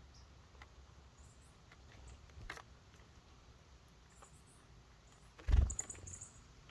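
Small birds at a wooden bird feeder: scattered light clicks and taps of feeding, with one louder thump a little past halfway.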